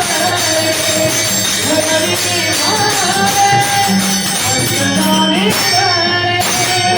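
Varkari devotional bhajan music: a voice singing in long, gliding phrases over jingling metal percussion and a held low drone.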